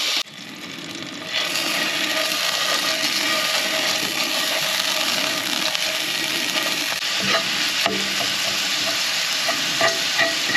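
Turkey sausage sizzling and frying in oil in a hot cast iron pan, stirred, with a few short knocks against the pan. The sizzle is quieter for the first second, then holds steady.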